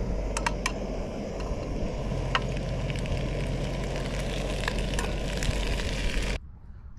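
Walleye fillets and corn sizzling in a frying pan on a canister gas camp stove, with a few sharp clicks and scrapes of a metal spatula against the pan. The sound cuts off abruptly near the end.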